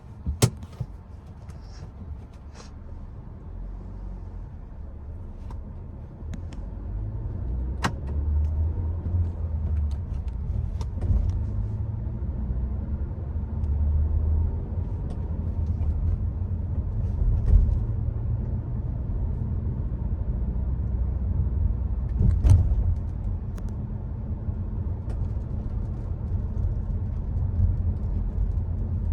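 Low road and engine rumble of a Hyundai Creta heard from inside the cabin while driving, growing louder about seven seconds in as the car gathers speed. Scattered sharp clicks and knocks sound over it, the loudest right at the start.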